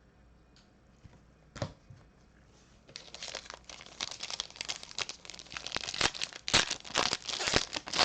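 Trading-card pack wrapper being torn open and crinkled by hand, starting about three seconds in after a single click.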